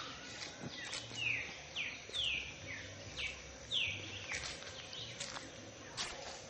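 Songbirds calling: a run of about six quick, falling whistled notes, roughly two a second, over scattered short chirps and a steady background hiss.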